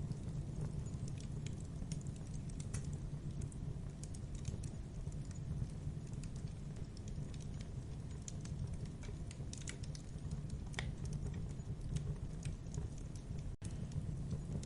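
Wood fire burning in a fireplace: irregular small crackles and pops of the burning wood over a low, steady rush of the flames. The sound cuts out for an instant near the end.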